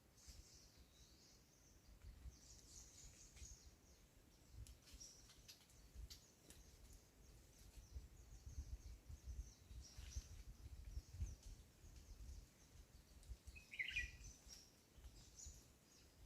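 Faint, high-pitched bird calls and chirps, with one louder short call about fourteen seconds in, over a low rumble and a few faint clicks.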